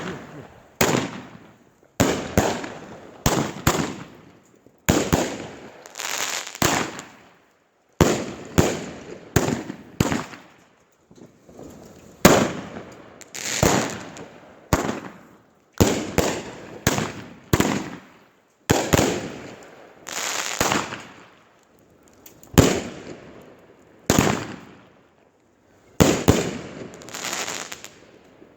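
Consumer fireworks going off: a long series of sharp bangs, about one a second and sometimes two close together, each followed by a short fading crackle. They fire through the whole stretch with a few brief pauses.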